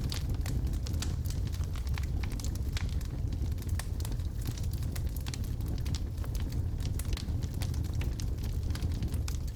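Wood logs burning in a fireplace: a steady low rumble of the fire with frequent irregular sharp crackles and pops.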